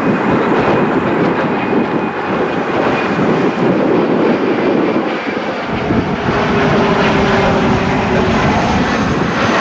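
Strong wind buffeting the microphone: a loud, steady rush and rumble. A faint steady tone rises above it for about two seconds past the middle.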